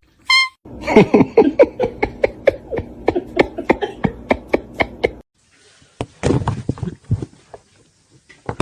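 A cat's short high call, then a quick run of clicking, chirping cat noises, and after a break more scattered clicks.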